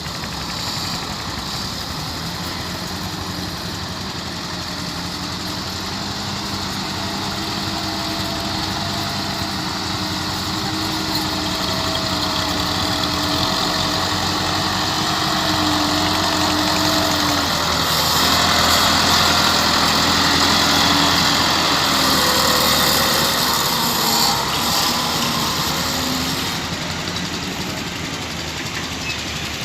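International tractor's diesel engine running under load, its note slowly climbing and growing louder, loudest about two-thirds of the way through, then easing back.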